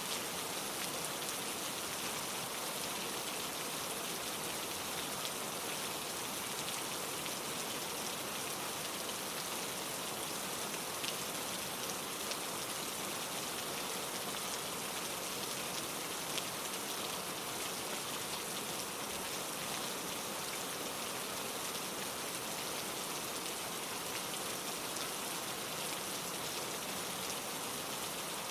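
Steady rain falling on leaves, an even patter with a few single drops ticking out a little louder now and then.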